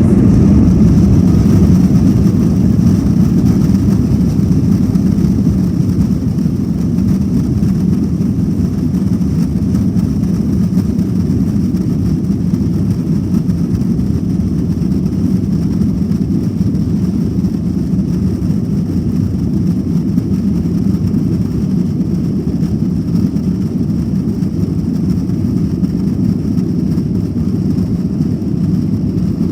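Boeing 737 jet engines roaring steadily as the airliner climbs away, the roar easing a little over the stretch, with a faint high whine above it.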